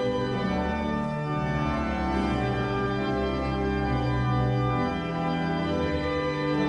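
Organ music: held chords over a bass line that moves to a new note every second or so.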